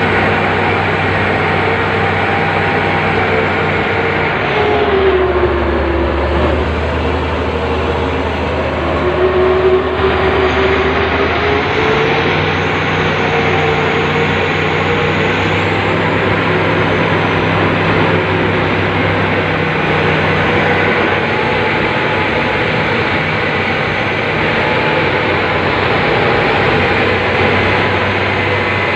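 Excavator's diesel engine and hydraulics running steadily, the pitch sagging and then recovering between about five and ten seconds in.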